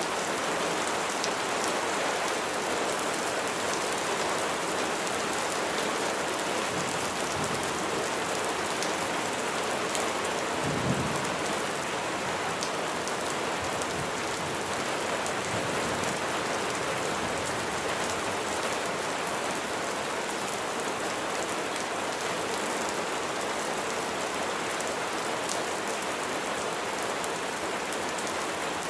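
Steady rain falling on a surface, a dense even hiss with scattered drop ticks, and a brief low rumble about eleven seconds in.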